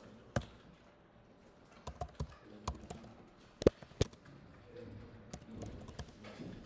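Computer keyboard typing: irregular, separate keystrokes, with a few sharper key clicks about halfway through.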